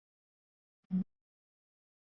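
A single short knock about a second in, otherwise silence.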